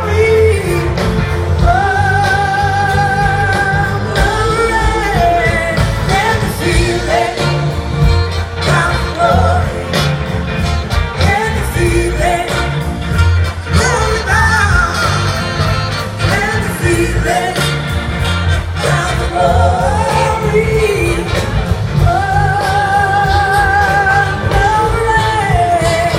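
Live rock band playing a song with singing, loud and continuous. Long, wavering held notes come in about two seconds in and again near the end.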